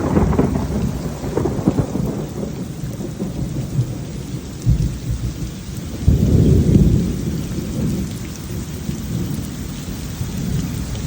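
Thunder rumbling over steady rainfall, loudest at the start and swelling again about six seconds in.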